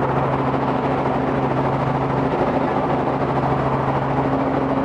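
Robinson R44 helicopter running: a steady engine and rotor drone with an even low hum.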